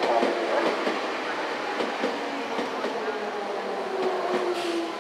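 Electric commuter train running through the station, its wheels clicking irregularly over rail joints, with a motor whine that falls slightly in pitch.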